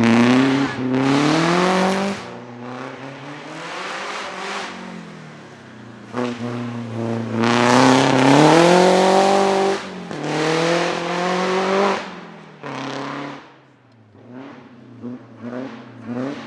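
Vintage racing car engine accelerating hard, its pitch climbing in long sweeps and dropping sharply at gear changes about two and ten seconds in. It is loudest in the first couple of seconds and again from about seven to twelve seconds, then fades to a fainter engine sound.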